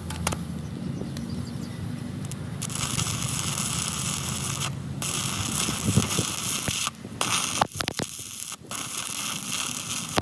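Metalworking noise on a loader boom: a crackling hiss that runs in stretches with short breaks, then a run of sharp clicks and knocks from about seven seconds in.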